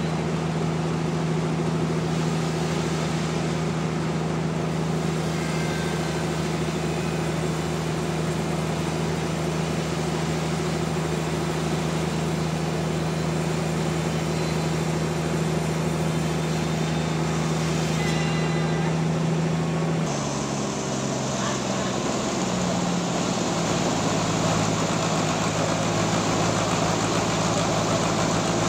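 A sawmill's engine running steadily with a constant hum; about two-thirds of the way through its pitch shifts and a louder, rougher noise builds.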